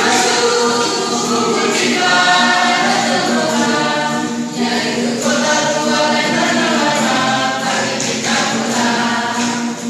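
A group of voices singing together in chorus, in long held phrases over a steady sustained low note.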